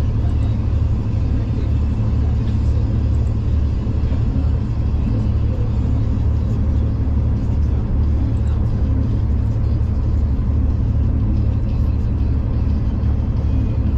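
Steady low rumble of a V/Line passenger train running along the track, heard from inside the carriage, with faint scattered ticks over it.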